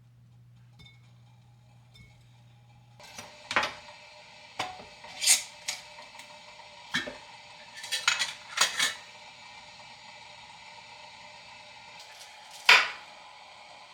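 Kitchen dishes and utensils being handled: about a handful of separate clinks and knocks with short ringing, starting about three seconds in, with a cluster around eight to nine seconds and a loud clink near the end.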